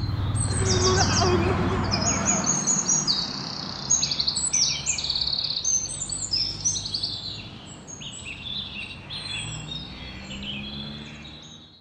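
Songbirds chirping and singing, many quick high calls overlapping, with the low rumble of a car driving past in the first couple of seconds; everything fades out at the end.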